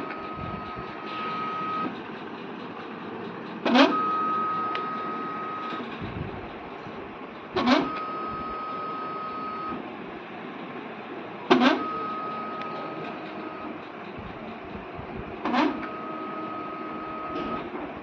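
Ekomilk Ultra milk analyzer running through a repeating cycle. About every four seconds there is a sharp click, followed by a steady high tone of about two seconds, over a continuous machine hiss.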